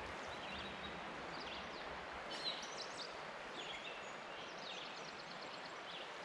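Steady rush of a flowing creek with several songbirds calling over it: short chirps throughout and a quick rapid trill about halfway through.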